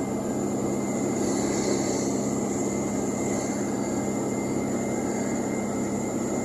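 Steady drone of a vehicle's engine and tyres on the road, heard from inside the cab while driving along a highway, with a steady low hum under it.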